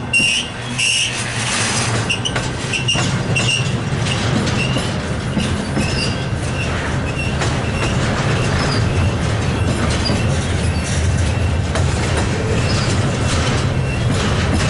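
Double-stack intermodal freight train's well cars rolling past at close range: a steady low rumble of wheels on rail, with short high squeals from the wheels repeating every second or so.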